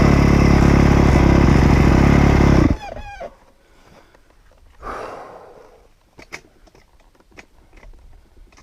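Dirt bike engine running loud and steady, then stopping abruptly a little under three seconds in. Faint clicks and a soft breath-like swell follow.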